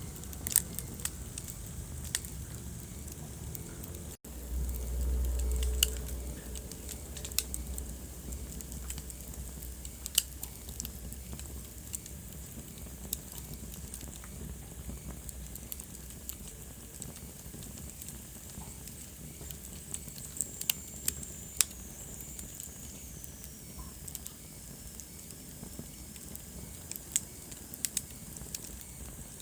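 Wood fire burning in a fireplace, crackling with sharp pops scattered throughout over a steady hiss. About four seconds in the sound cuts out for an instant, then a low rumble lasts about two seconds, and a faint high whistle falls in pitch later on.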